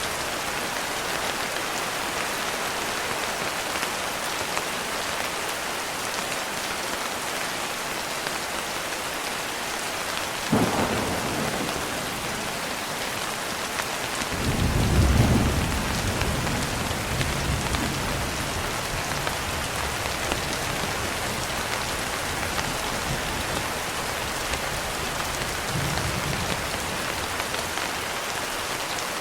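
Steady rain falling throughout. About ten seconds in comes a sudden crack of thunder, and a few seconds later a longer, louder low rumble of thunder that rolls and slowly fades.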